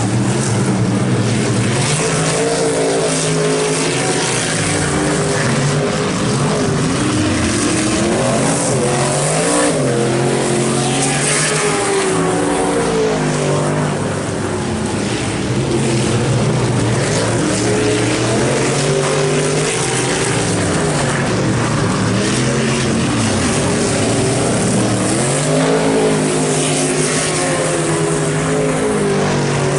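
Several racing trucks' engines running together, their pitch rising and falling over and over as they accelerate and ease off around the track.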